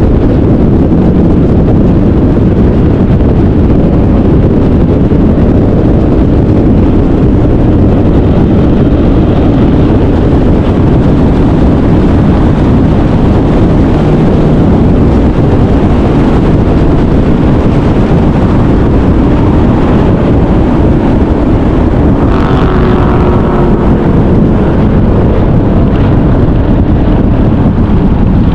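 A car driving, with its engine and wind noise on the microphone running loud and steady, low and rumbling.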